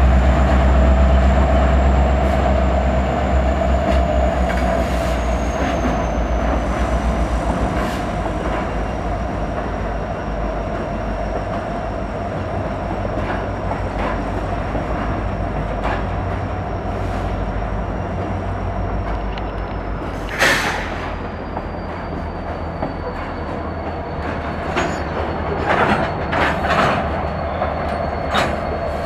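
Freight train passing: the deep rumble of a CN SD70M-2 diesel locomotive fades over the first ten seconds as it moves away, leaving steel wheels running on the rails with a steady ringing tone. A single sharp metallic bang about two-thirds of the way through is the loudest sound, and a cluster of bangs and clanks follows near the end.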